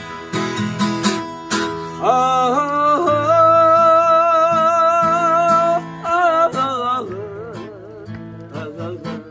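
Acoustic guitar playing a trot (ppongjjak) song accompaniment. Strummed strokes come first, then a long melody note held for about three seconds with a wavering vibrato.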